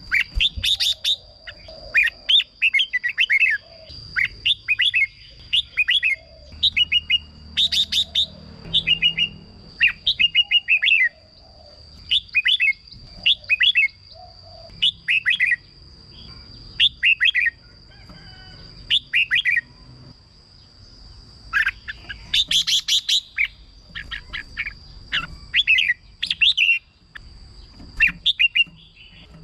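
Red-whiskered bulbul singing: short, bright chirping phrases repeated about once a second. A thin, steady high-pitched tone runs underneath.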